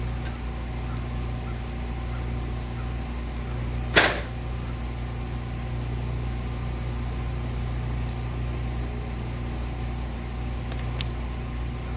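Steady hum of an engine running, with one sharp click about four seconds in.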